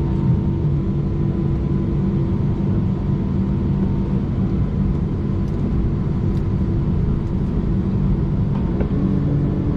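Steady cabin rumble of an Airbus A319 jet taxiing after landing, with a constant low engine hum.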